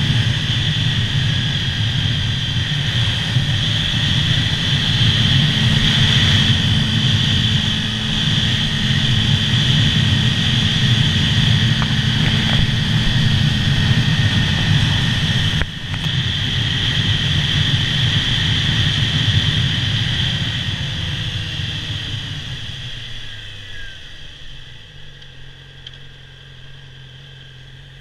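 Stock Yamaha R6 inline-four sportbike engine running at road speed with wind noise on a helmet-mounted camera, then dropping in pitch and loudness as the bike slows about 20 seconds in, and settling to a steady idle for the last few seconds.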